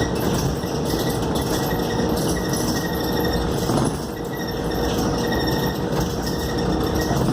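Cabin noise inside a Scania K280UD double-decker bus under way: the engine's steady drone mixed with road noise and cabin rattles, with one short knock about four seconds in.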